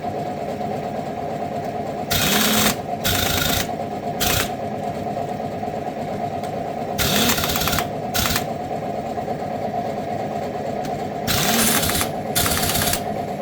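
A motor hums steadily, broken by about seven short, loud bursts of hiss, the longer ones lasting under a second.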